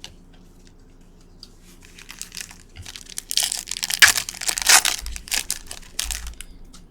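Foil trading-card pack wrapper being torn open and crinkled, starting about two seconds in, loudest in the middle and dying away near the end.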